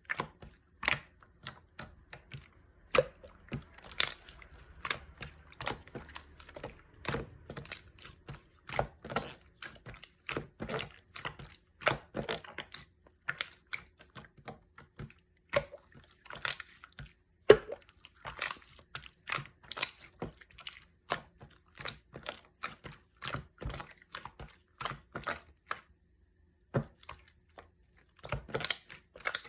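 Slime being squeezed, poked and folded by hand, making irregular sticky clicks and pops several times a second, with a short pause near the end.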